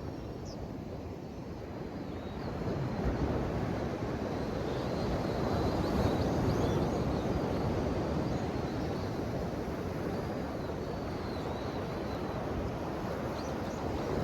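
Ocean waves washing onto a shore: a steady rush of surf that swells about three seconds in and then holds, with faint high chirps now and then.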